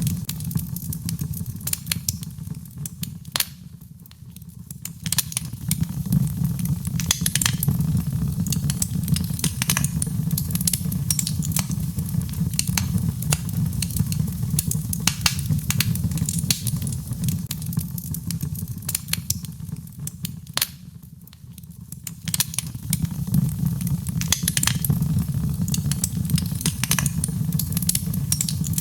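Birchwood fire burning in a fireplace, crackling with frequent sharp pops over a steady low rumble. Twice the crackling thins out and quietens for about a second.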